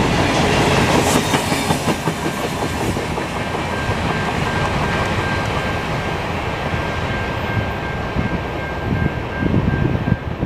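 Freight train railcars rolling past with the wheels clicking over the rails, loudest in the first two seconds, then fading as the train moves away. A thin steady high tone rings from about two seconds in until near the end, and wind gusts on the microphone near the end.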